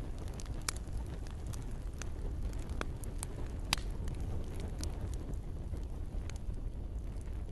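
Campfire burning with a steady low rumble and irregular sharp crackles and pops of burning wood, one pop about halfway through louder than the rest.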